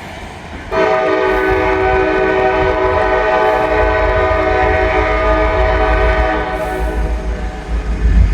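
Diesel freight locomotive's air horn sounding one long blast of several notes at once, starting suddenly about a second in and held for about six seconds, as the train approaches a grade crossing. The locomotive's low rumble grows louder near the end as it draws close.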